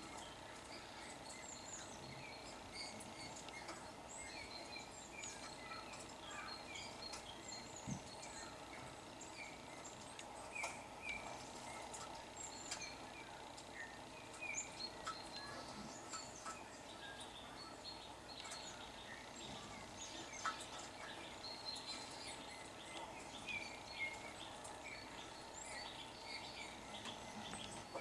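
Many small songbirds chirping and calling, coming from a bird video playing on a TV.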